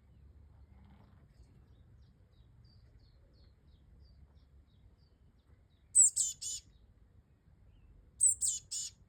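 A bird calling twice, each call a quick run of three or four high, chirpy notes, the first note sliding down, about two seconds apart.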